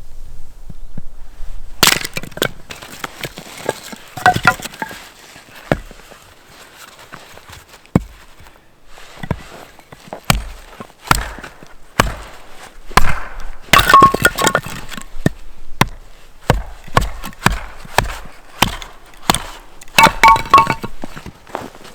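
Wood cracking and knocking in a long irregular series of sharp snaps and thuds, as firewood is broken or split, with a few brief metallic clinks.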